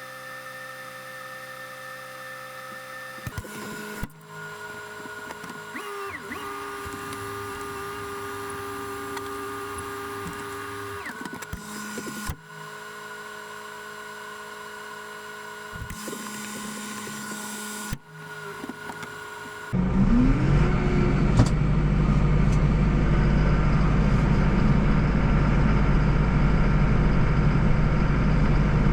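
Tractor engine running a snowblower, heard in several short clips joined by abrupt cuts. About twenty seconds in it becomes much louder and deeper, with a brief rising whine, then runs steadily.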